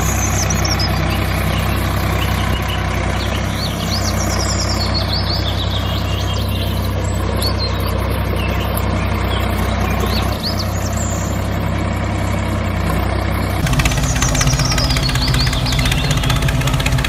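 Tractor engine running steadily, with birds chirping above it. About three-quarters of the way through, the engine note turns louder and more rapidly pulsing.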